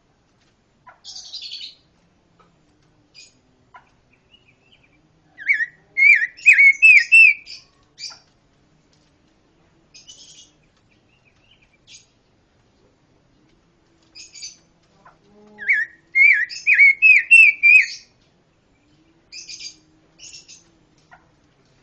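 Songbird of the kind Indonesian bird-keepers call pancawarna, singing: two loud phrases of fast, repeated looping whistled notes, one about six seconds in and one near the end, with short high chirps in between.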